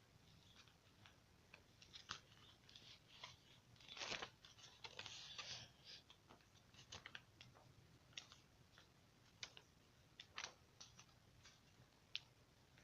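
Faint handling of a paperback book: pages rustling and flipping, with scattered light ticks and a slightly louder rustle about four seconds in.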